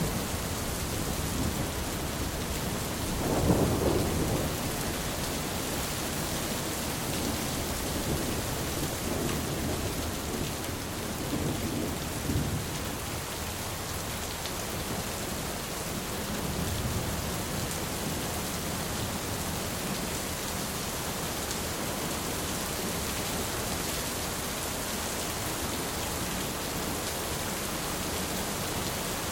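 Steady heavy rain with thunder rumbling in low swells, the loudest roll about three seconds in and fainter rumbles later.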